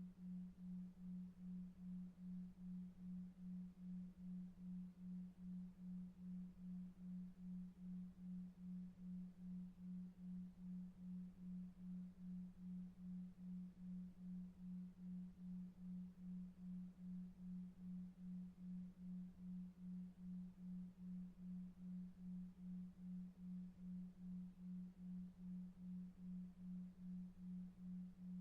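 Faint, steady low tone that pulses evenly about two and a half times a second: a 2.5 Hz delta-wave beat tone for sleep, over faint brown noise.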